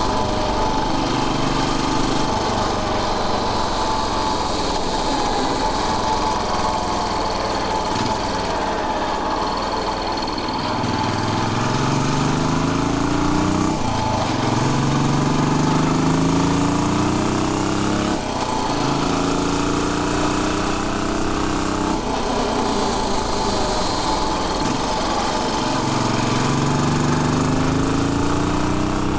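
Royal Enfield Bullet 500's single-cylinder four-stroke engine running while riding. In the second half its note climbs several times, each time dropping back abruptly before climbing again.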